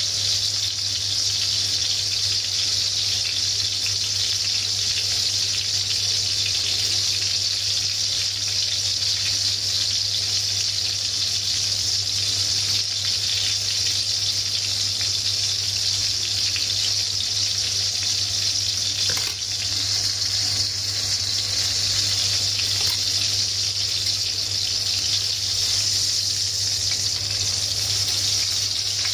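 Breaded pork chop deep-frying in hot oil in a pan: a steady, even sizzle, with a low steady hum beneath it.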